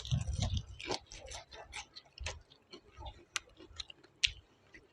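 A person eating close to the microphone: chewing with irregular sharp, wet mouth clicks and lip smacks.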